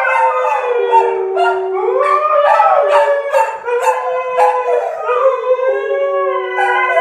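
Three dogs howling together, their long drawn-out notes overlapping at different pitches and sliding up and down.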